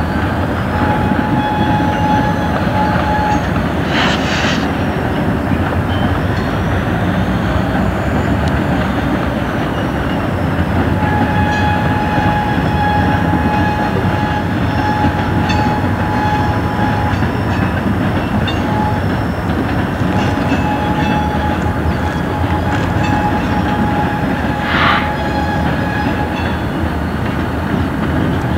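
Freight rail yard: a steady rumble of diesel locomotives and freight cars, with thin high wheel squeals coming and going. There are two short sharp noises, about four seconds in and near the end.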